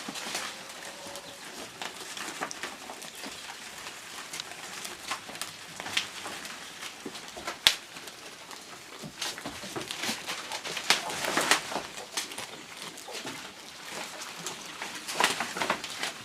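Goats feeding on leafy branches: irregular rustling and crackling of leaves being pulled and chewed, with a sharp click about seven and a half seconds in.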